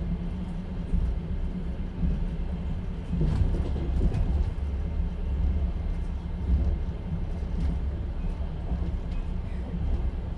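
Inside a moving passenger train's open-plan sleeper car: a steady low rumble from the running gear, with the wheels knocking over rail joints a few times at irregular intervals.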